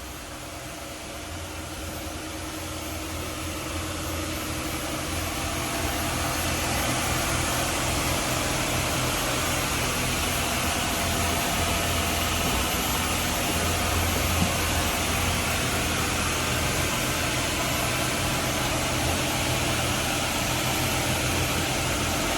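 Twin diesel engines of a Bayliner 4788 motor yacht running at about 2,500 RPM at cruising speed, a steady low drone under a rushing noise. It grows louder over the first six seconds, then holds steady.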